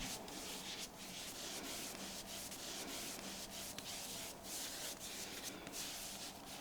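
Skin being wiped and rubbed in repeated strokes as toner is applied across a bare back: a soft, faint brushing hiss, broken by short pauses between strokes.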